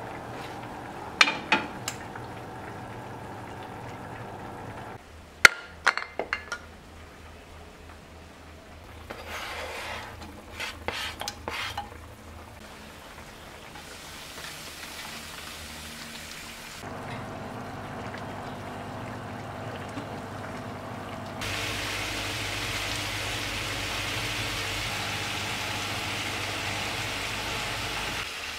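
Stovetop cooking: a few sharp clinks of a utensil against a pan, then, from about three quarters of the way in, a steady sizzle of leafy greens frying in a pan.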